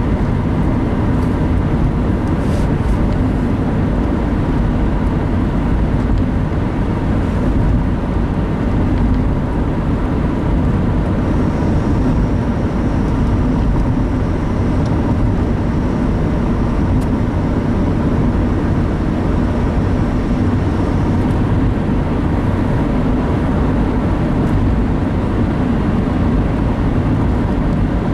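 Steady road and engine noise inside a moving car, a low rumble that holds even throughout. A faint high whine comes in for about ten seconds midway.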